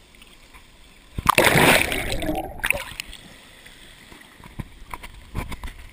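A loud splash in water about a second in, trailing off over a second and a half, followed by a few faint knocks.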